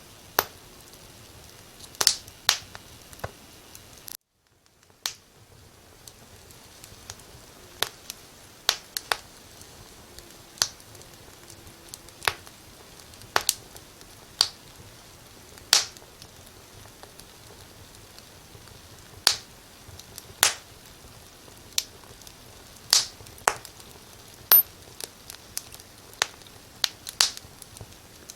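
Wood fire crackling: irregular sharp pops and snaps over a faint steady hiss. The sound cuts out briefly about four seconds in.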